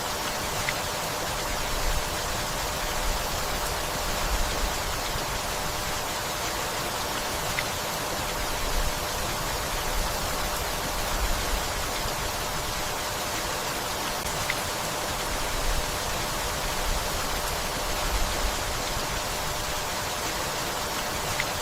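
Steady rainfall, an even hiss, with brief low bumps every second or two.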